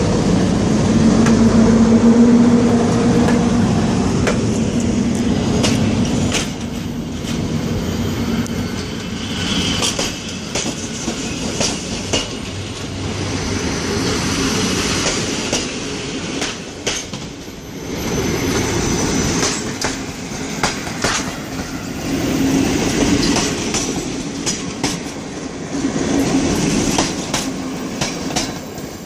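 EU07 electric locomotive and its passenger coaches passing close by, the locomotive's steady hum loudest in the first few seconds. The coaches then roll past with irregular clacking from the wheels over rail joints and a few brief high wheel squeals.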